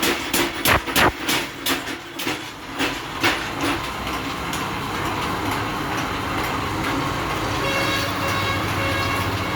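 Power hammer striking in a steady rhythm of about three blows a second. The blows weaken and stop within the first few seconds, leaving a steady machine running noise.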